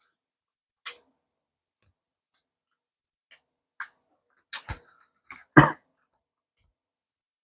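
Close-miked eating sounds: a few scattered short clicks and crunches, with a louder, fuller burst about five and a half seconds in.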